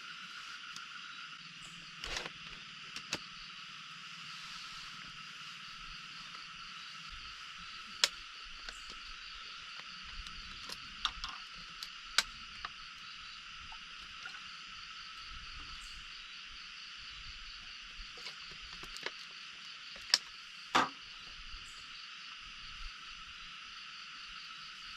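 Steady chorus of calling insects, several high pitched pulsing tones held without a break. Scattered over it are a few sharp clicks and knocks, the loudest about eight, twelve and twenty seconds in.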